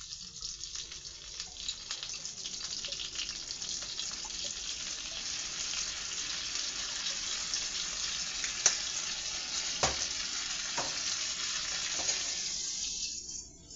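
Chicken nuggets sizzling in butter and hot sauce in a frying pan: a steady crackling sizzle that builds over the first couple of seconds, with a few sharp clicks in the second half, and dies down near the end.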